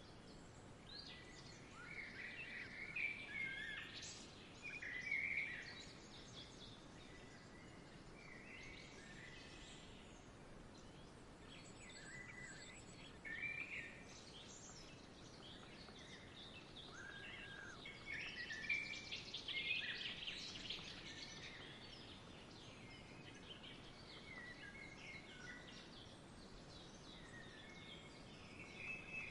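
Songbirds chirping and trilling over a faint steady outdoor hiss, with bursts of calls about two to five seconds in and again around eighteen to twenty-one seconds in.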